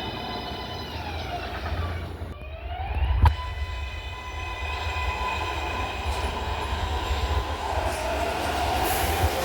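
MARTA rapid-transit train running, its motors whining in several stacked tones that slide down in pitch and then climb again about two seconds in, over a steady low rumble. A single sharp clunk comes about three seconds in.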